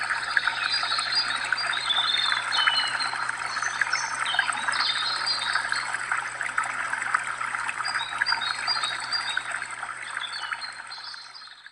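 A stream trickling steadily with small birds chirping over it, fading out near the end.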